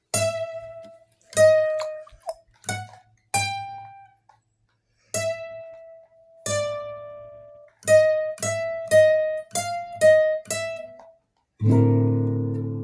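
Guitar played one note at a time: single plucked melody notes with sharp attacks, each ringing and fading, separated by short gaps. Near the end a full strummed chord rings out.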